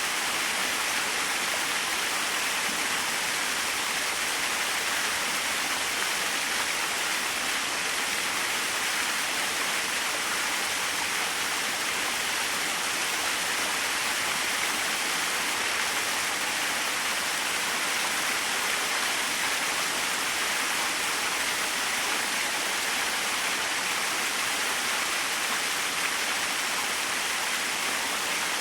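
Small waterfall splashing steadily, an even hiss of falling water with little low rumble.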